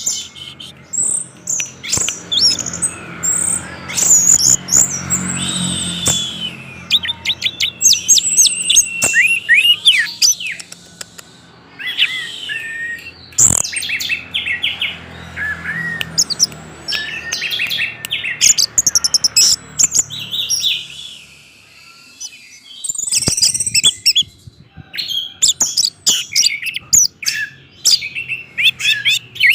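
Orange-headed thrush singing a long, varied song: rapid whistled phrases with many rising and falling notes and quick trills, broken by a few short pauses.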